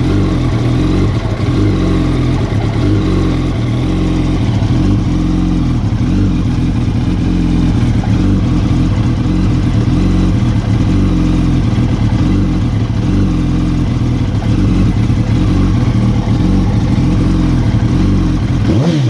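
Yamaha R1's inline-four engine idling steadily through a Two Brothers aftermarket exhaust, its pitch wavering slightly.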